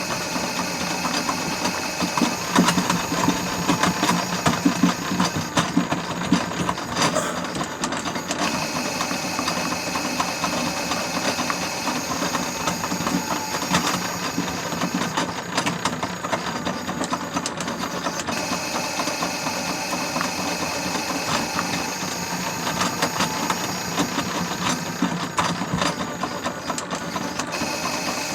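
Miele W1 toy washing machine running mid-cycle: its small electric motor turns the drum with a steady whine and a plastic rattle, a little louder and more uneven a few seconds in.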